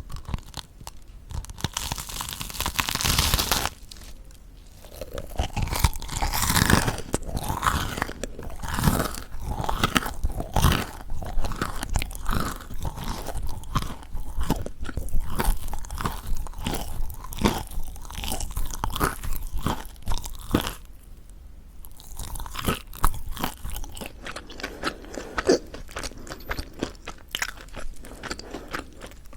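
Close-miked crunching and chewing of crispy mocha chapssal bread: the crust crackles in dense runs of sharp clicks, with a short quieter pause about three-quarters of the way through.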